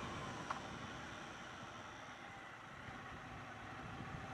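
Triumph Bonneville T120's parallel-twin engine running on the move, faint under steady wind and road noise, with a small click about half a second in.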